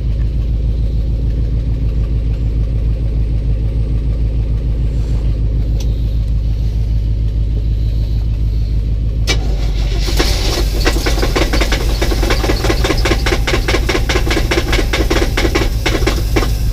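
A 1984 box truck's engine fires about nine seconds in on gasoline poured into it and runs for about six seconds with a rapid, even knocking clatter before it dies, under the steady idle of a second truck. The owner suspects a cracked or loose flywheel or a loose torque converter behind the knock.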